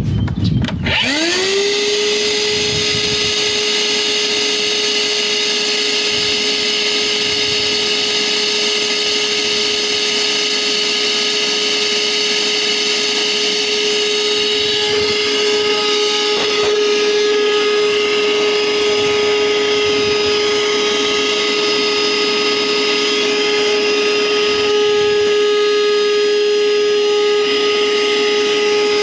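Electric power tool motor spinning up about a second in, then running steadily at constant speed.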